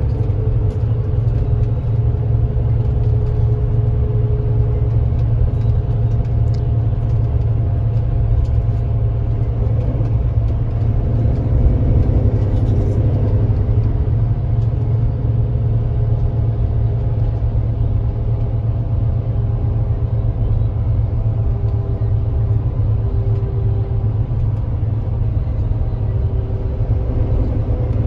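Kia Granbird Sunshine coach's diesel engine running while the bus drives along: a steady low rumble with faint whining tones above it that shift slightly in pitch.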